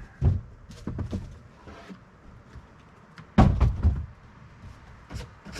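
A few knocks and thuds as snow is knocked off an upturned container, the loudest thud about three and a half seconds in.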